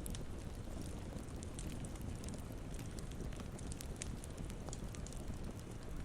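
Campfire burning: a steady low rush with many small, sharp crackles and pops scattered throughout.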